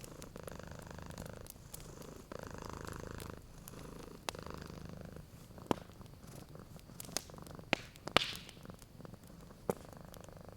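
A cat purring in slow swells, one with each breath, over the sharp pops and crackles of a fireplace fire. The loudest pop comes about eight seconds in.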